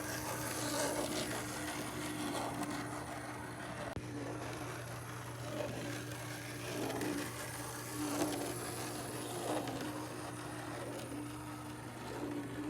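N scale model locomotive running on the layout: its small motor whines at a steady pitch that drops out now and then, while the wheels rattle along the track in rhythmic swells.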